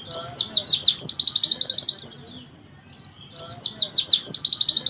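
A white-eye (pleci) singing loudly in two high-pitched bursts about three seconds apart. Each burst is a few quick downward-swept notes running into a fast trill of about a dozen notes a second.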